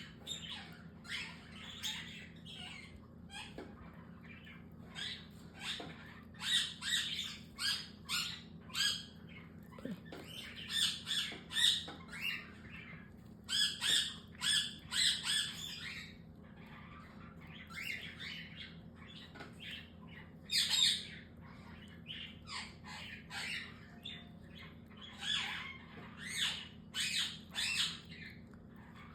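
Baby cockatiel chicks calling: short high calls in quick runs of several, repeating with brief pauses.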